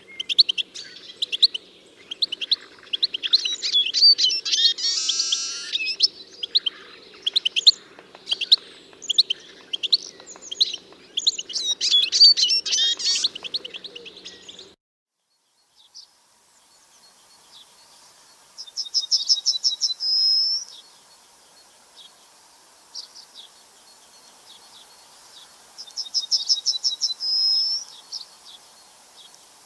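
Songbirds chirping and calling thickly over one another. After a break, a single bird sings the same short song twice: a fast trill of about ten notes ending in one slurred note.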